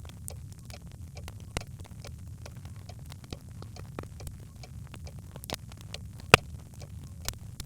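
Birchwood fire in a hearth crackling: a steady low rumble of the flames with frequent sharp snaps and pops, the loudest pop about six seconds in.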